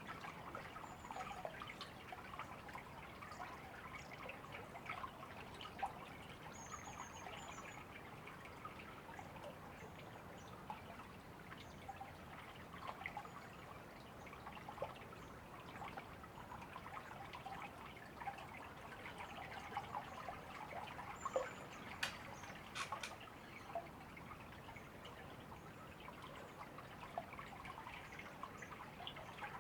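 A river running and trickling steadily, with a dense patter of small splashes and bubbles. Faint high bird chirps come now and then, and a few sharp clicks sound a little past the middle.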